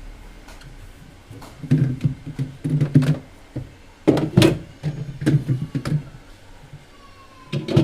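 Hollow knocks and thuds of a refrigerator's plastic and metal parts being handled and scrubbed during cleaning, coming in irregular clusters with a short resonant ring.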